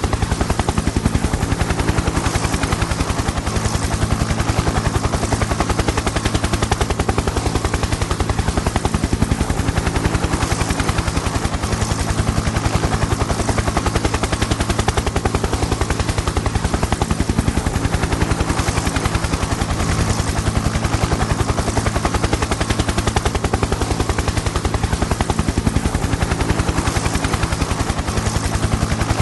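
Helicopter in steady flight: rapid, even chopping of the rotor blades over a steady low engine drone.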